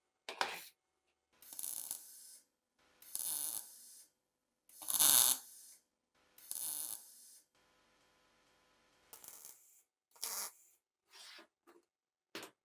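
Hand work on metal gun parts during a rebuild: a series of short scraping strokes, about ten, each lasting under a second with short pauses between.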